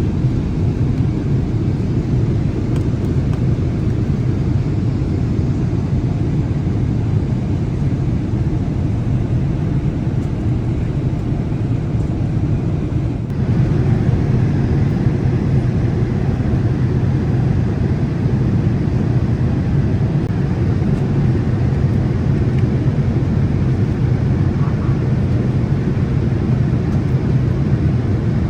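Steady low rumble of a jet airliner in operation, which steps up slightly in loudness about halfway through.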